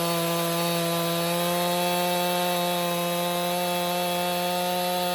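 Stihl two-stroke chainsaw held at full throttle, cutting through a firewood log with a steady, unbroken engine note.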